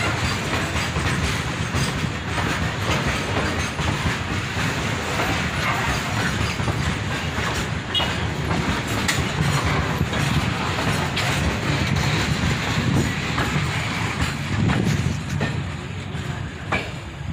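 A freight train's covered box wagons rolling past close by, wheels clattering over the rail joints in a steady rumble with scattered sharp clanks. Near the end the brake van at the tail goes by and the sound eases off a little.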